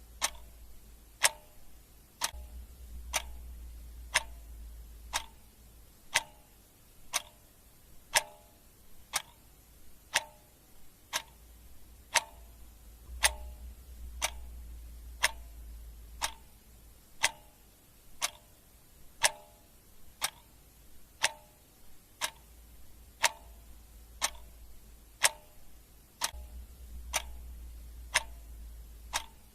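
Clock ticking steadily, about two ticks a second, alternating louder and softer in a tick-tock rhythm. A faint low hum comes and goes underneath.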